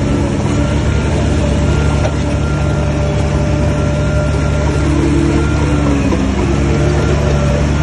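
Heavy earthmoving machine's diesel engine running under load, steady and loud, its note shifting and dipping briefly about five to six seconds in before settling again.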